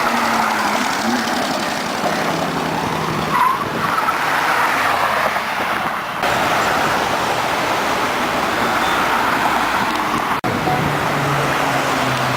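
Steady road traffic noise from cars moving along a street, with engine tones rising and falling, broken by a very brief dropout about ten seconds in.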